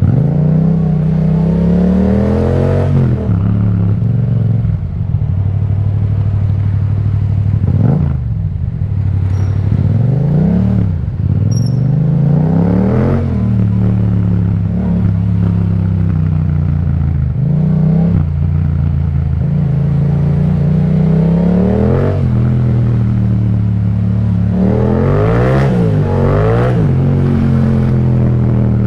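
Yamaha MT-07 parallel-twin engine through an Akrapovic exhaust, heard while riding. The revs climb and drop repeatedly through gear changes and roll-offs, with steadier running between.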